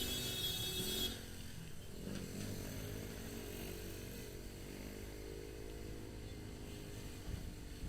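Motorcycle engine running steadily while riding, a low drone that wavers slightly with throttle. A high-pitched, many-toned sound sounds over it for about the first second, then stops.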